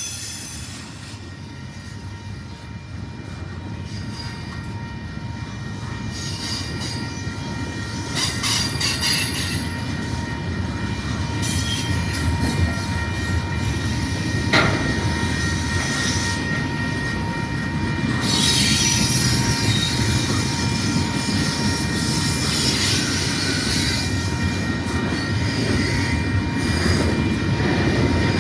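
Freight train rolling by with a steady rumble that grows slowly louder, its wheels squealing in repeated high bursts. There is a single sharp click about halfway through.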